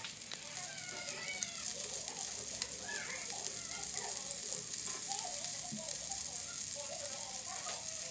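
Oil sizzling in a non-stick frying pan as blocks of Spam-wrapped tofu shallow-fry: a steady frying hiss.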